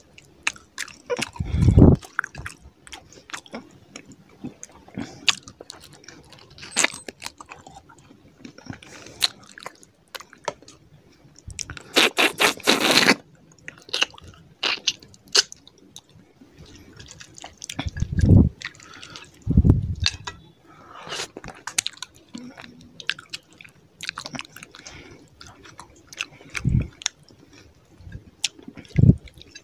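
Close-miked eating: wet chewing and lip smacking of fish curry and rice eaten by hand, with crunches and a dense burst of crackling crunching about twelve seconds in. A few short low thuds come at intervals.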